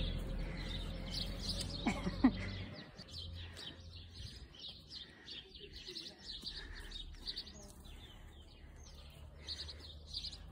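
Small birds chirping, many short high chirps repeating. A brief louder sweep about two seconds in, and a low rumble that stops about three seconds in.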